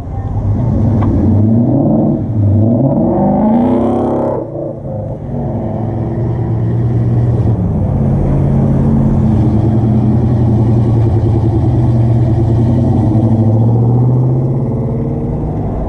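Motor vehicle engine that revs up in pitch twice in the first few seconds, then runs at a steady, even note.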